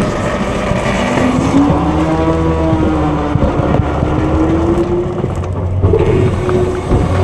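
Autocar-Heil Freedom front-load garbage truck running at raised revs during a packing cycle, a whine rising in pitch over the first couple of seconds and then holding steady over a low engine rumble, with a brief jump in pitch about six seconds in.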